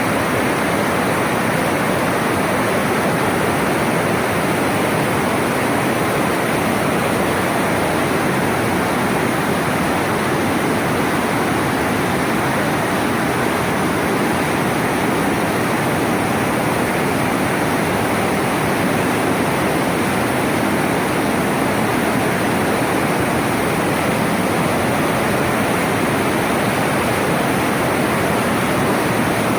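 Floodwater rushing through a swollen stream bed, a loud, steady, unbroken rush of water.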